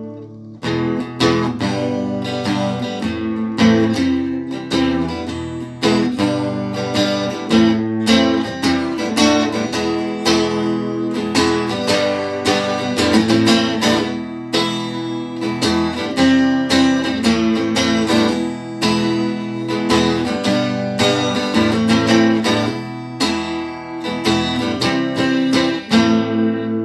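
Guitar plugged into gear that changes its sound, strummed in a steady rhythm over ringing low notes, with no singing.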